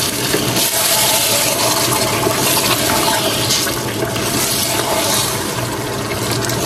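Raw chicken pieces sizzling in hot oil with browned onions and ginger-garlic paste in a steel pot, a steady hiss, as they are stirred with a wooden spoon.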